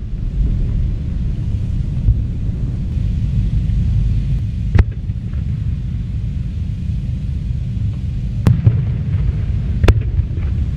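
Fireworks display: a steady low rumble of shells going off, with three sharp cracks of bursting shells, about five seconds in, at eight and a half seconds and near the end.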